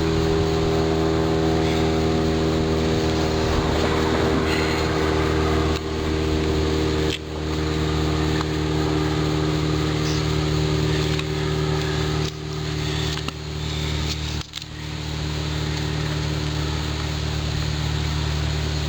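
1997 Husqvarna 24cc two-stroke string trimmer engine running steadily at idle on a freshly rebuilt carburetor, dipping briefly four times as it stumbles. The idle screw has not been turned in at all.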